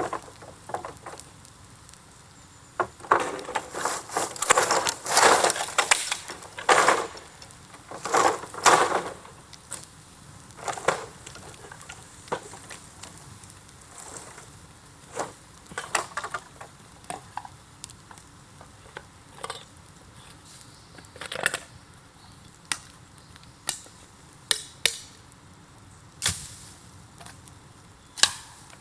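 Burning bamboo crackling and snapping. There is a dense run of loud crackling in the first third, then separate sharp pops every second or two.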